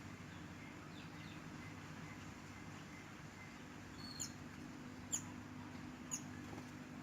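A small songbird, the mantenan, chirping: faint short chirps, then three sharp, high chips about a second apart. A steady low hum runs underneath.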